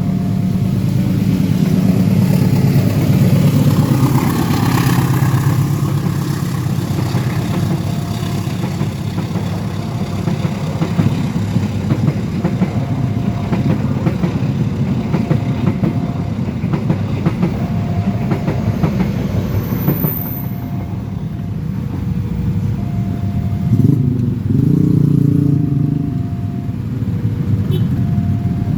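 A train passing over a railway level crossing: a continuous loud rumble with fine clattering from the wheels on the rails. A short tone repeats about every two seconds.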